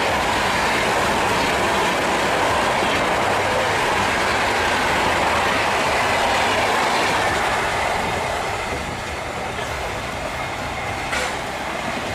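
Mumbai Rajdhani Express passenger train running at high speed, a steady loud rush of wheels on rail with clickety-clack. The sound eases a little about eight seconds in, and there is one short sharp click near the end.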